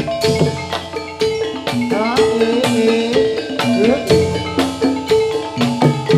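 Javanese gamelan accompanying a jathilan dance: bronze metallophones strike a repeating melody of ringing notes over steady drum strokes, with a few rising pitch slides.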